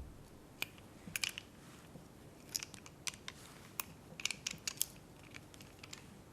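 Irregular small, sharp clicks and taps of handled objects, some single and some in quick clusters, over a faint steady hiss.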